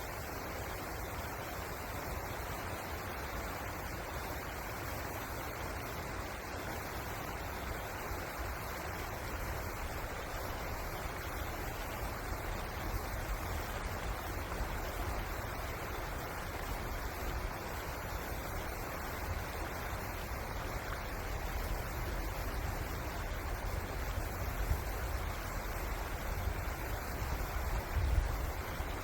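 River water rushing steadily, with an uneven low rumble underneath that swells a little near the end.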